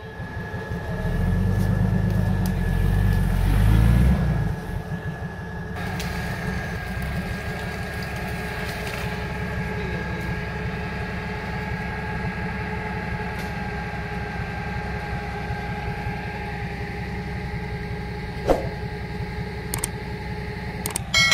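Off-road 4x4's engine running steadily at low revs, a low rumble with a steady whine over it, louder for the first few seconds.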